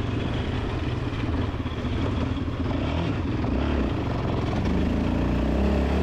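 Motorbike engine running steadily, its note shifting in pitch about halfway through.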